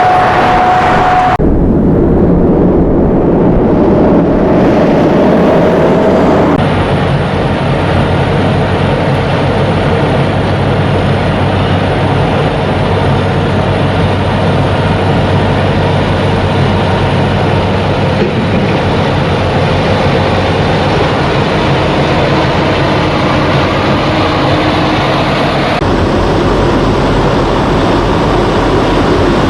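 Diesel semi-truck engines running with heavy road noise, a low pulsing rumble throughout. The sound changes abruptly three times, where separate clips are spliced together.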